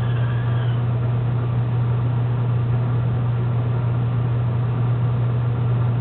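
A steady low hum that does not change, with a faint high chirp near the start.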